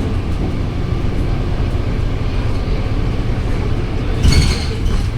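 Scania K230UB city bus running, with a steady low engine and road rumble. A brief louder burst of higher-pitched noise comes about four seconds in.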